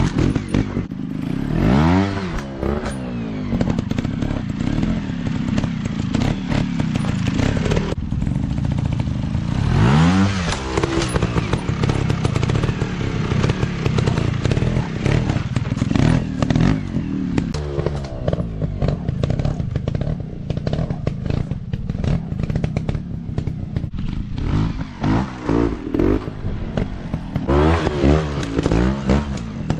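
Four-stroke dirt bike engine running under load off-road, revving up and down repeatedly, with sharp rises in pitch about two seconds in, around ten seconds in and several times near the end. Frequent clicks and knocks sound over the engine.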